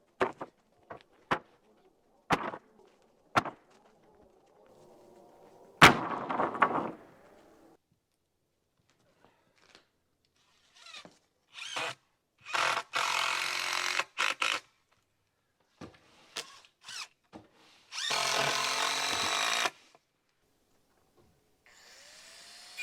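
Power drill driving screws into wood in short runs, the longest about two seconds. Before that come scattered knocks and one sharp bang about six seconds in.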